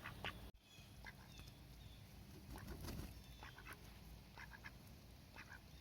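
Faint, scattered short quiet calls from Rouen drakes, a few soft quacks spread through a near-silent stretch.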